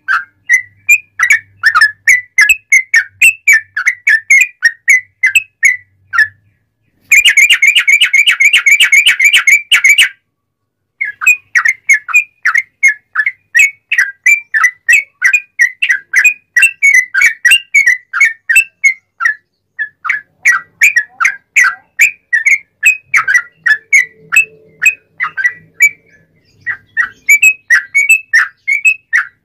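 Yellow-vented bulbul (trucuk) singing a long run of short, clear chirping notes, about three or four a second, broken about seven seconds in by a fast rolling trill of some three seconds before the chirping resumes.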